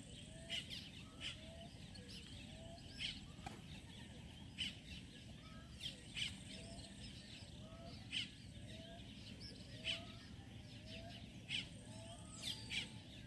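Faint outdoor ambience of birds calling: a short rising note repeats about once a second, with sharper high chirps scattered among it over a steady low background hiss.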